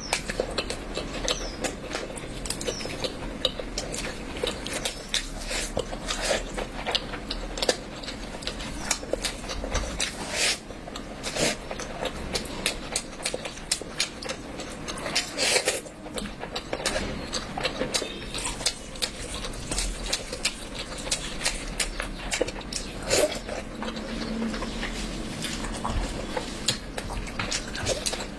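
A person eating curry close to the microphone: chewing with many short, irregular mouth clicks and smacks.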